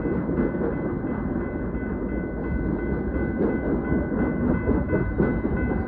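The last cars of a long freight train rolling past, a steady rumble of wheels on rail, with a level crossing's warning bell ringing over it as steady high tones.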